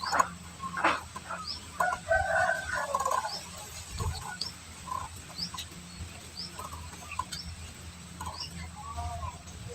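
Society finches chirping: a few sharp short calls near the start, a burst of warbled notes about two to three seconds in, and thin high rising chirps repeating about once a second.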